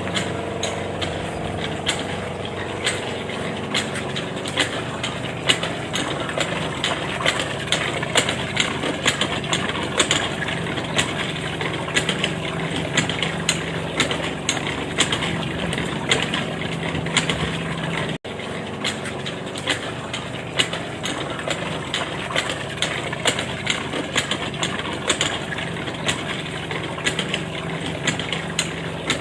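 Small engine running steadily with a rapid clatter of clicks over its hum. It breaks off for an instant about two thirds of the way through and carries on.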